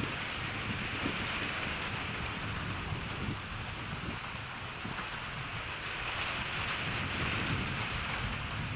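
Steady rain falling, with a low, uneven rumble of distant thunder underneath.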